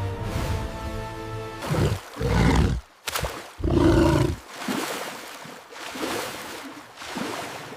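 Background music with loud animal roars, two of them about two and four seconds in, then softer growling sounds.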